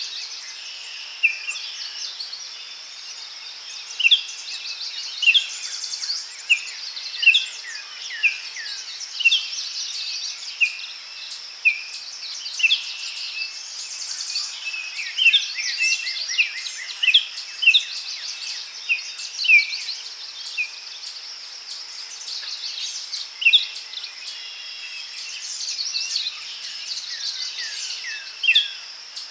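Daytime forest ambience: birds calling with many short, sharp chirps about every half second, over a steady high-pitched insect-like hum.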